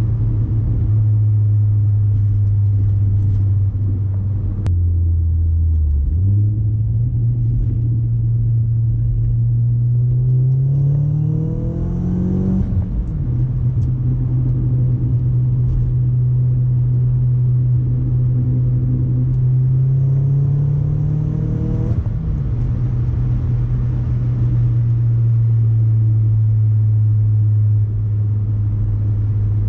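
Audi A4 B6's 1.8T turbocharged four-cylinder running through an ECS catback exhaust with no resonator, droning steadily at a constant cruising pitch. Twice the pitch climbs under acceleration and then drops sharply at an upshift, and briefly about five seconds in it sits lower.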